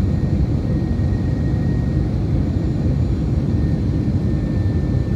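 Steady cabin noise of an Airbus A321 in flight: a dense, even low rumble of airflow and engine drone, with a faint steady whine running through it.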